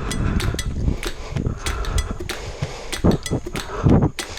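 Irregular clicking and rattling from a road bike being ridden up a steep climb, over a low rumble of wind on the microphone.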